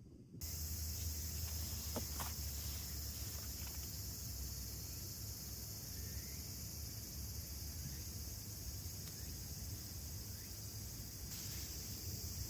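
Steady high-pitched chorus of summer insects, over a low rumble. It starts abruptly just under half a second in.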